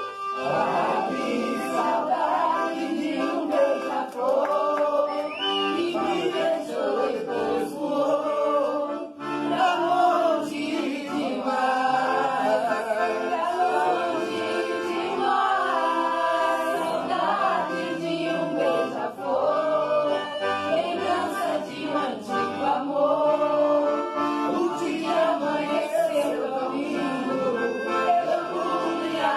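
Two male voices singing a sertanejo song in harmony, with an accordion playing along.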